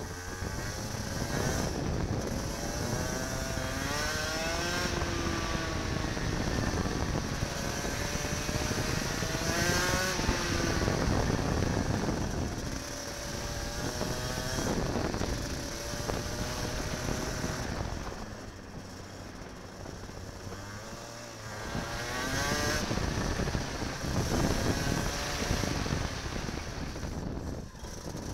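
Kart engine heard from an onboard camera, revving up in rising sweeps and falling back several times over, with quieter stretches where it drops off for corners.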